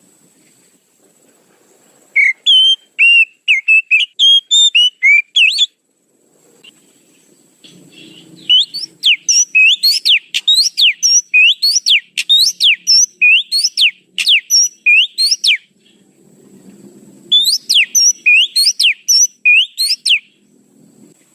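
Oriental magpie-robin (kacer) song played as a lure call, in three bursts: a run of short whistled notes about two seconds in, then a long string of rapid downward-sweeping whistles from about eight seconds, and a shorter string of the same near the end.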